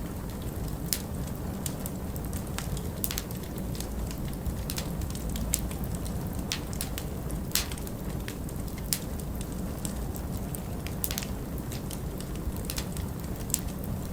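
Wood fire in a fireplace crackling, with irregular sharp pops and snaps over a steady low rumble of winter wind.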